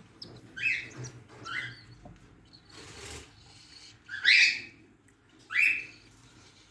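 Budgerigar calling: four short, harsh chirps spread over the stretch, two early and two louder ones later, with a few fainter chirps between them and a brief rustle in the middle.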